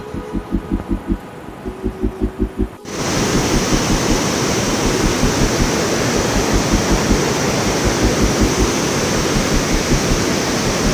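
Background music with a steady beat; about three seconds in, a loud steady rushing noise cuts in over it and stops abruptly near the end, with the beat still faintly under it.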